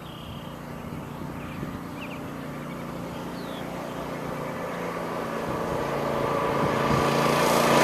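Massimoto Warrior 200 mini bike's small single-cylinder four-stroke engine running at a steady pitch and growing steadily louder as the bike approaches. A few faint bird chirps can be heard.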